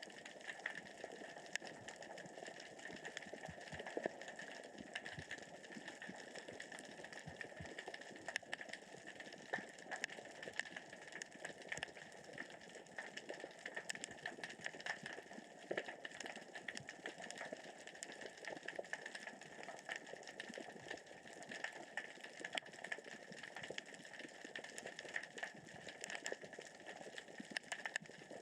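Underwater crackling, a dense, steady patter of small irregular clicks: small rocks rolling and knocking across the sea floor as the current and tide move them.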